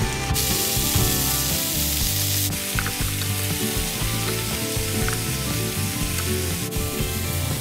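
Vegetables sizzling in hot oil as they are stir-fried, tossed with a spatula in a nonstick pan; the hiss rises just after the start. Background music plays underneath.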